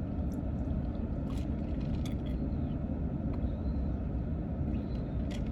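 Steady low rumble of a car with its engine running, heard from inside the cabin, with a few faint light clicks.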